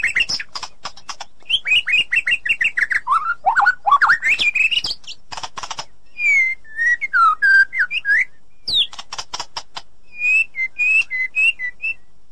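White-rumped shama singing a loud, varied song: a fast run of short falling whistles, sweeping rising and falling whistled phrases, and bursts of sharp clicking notes, ending with a string of repeated two-note whistles.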